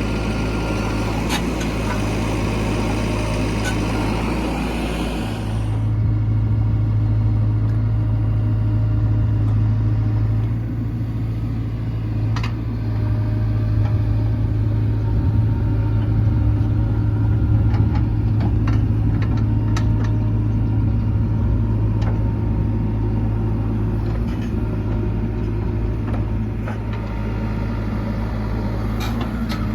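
Diesel engine of a JCB 3DX Xtra backhoe loader running steadily under working load, with a hiss that cuts off abruptly about five seconds in and a few sharp clanks.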